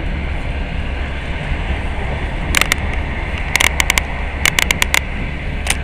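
Passenger train running, heard from inside the carriage: a steady low rumble with running noise. From about two and a half seconds in, a series of sharp clicks comes in small clusters.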